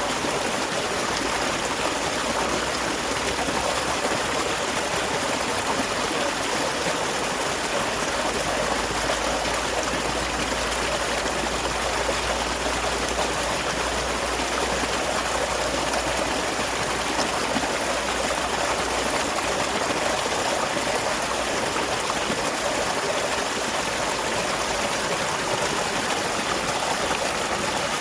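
Small waterfall: water falling and running over rocks in a steady, even rush.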